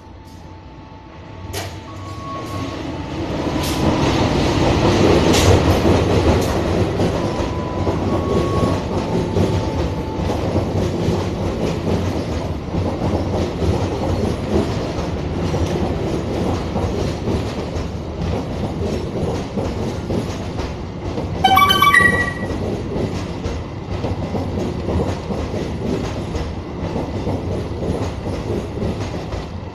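Diesel-hauled passenger train passing close by: the locomotive's noise builds quickly over the first few seconds, then a long string of carriages rolls past with wheels clacking over the rail joints. A brief shrill squeal cuts in about two-thirds of the way through.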